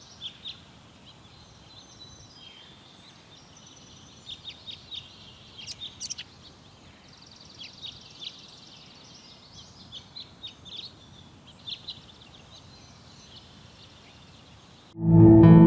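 Small songbirds chirping in short, scattered calls, with one fast even trill about eight seconds in, over a faint steady hiss. Loud ambient music cuts in near the end.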